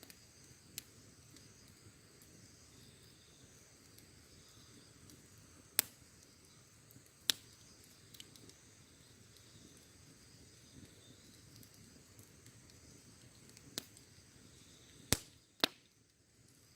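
Wood fire crackling: scattered sharp pops from the burning wood over a low steady background. There is one pop about a second in, two loud ones around six and seven seconds, and a close pair near the end.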